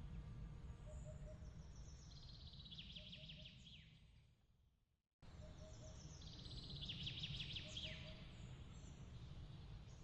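Nature ambience: a steady low rumble with a small bird calling in rapid trills that slide down in pitch. About four seconds in it fades to silence and cuts back in sharply a second later, the same calls repeating as the recording loops.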